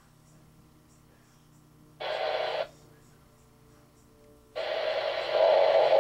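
Two air-to-air radio transmissions keyed up over a scanner: the first a short burst of hiss lasting well under a second, the second louder and about two seconds long. Each cuts on and off sharply, with no clear words.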